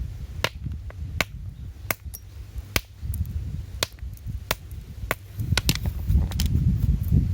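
A string of sharp knocks, irregularly one to two a second, over a steady low rumble of wind.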